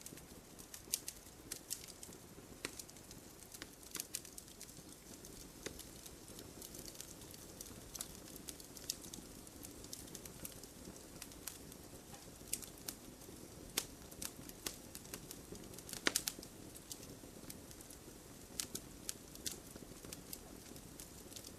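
Campfire burning with irregular sharp crackles and pops of burning wood over a faint low hiss, a cluster of louder pops about two-thirds of the way in.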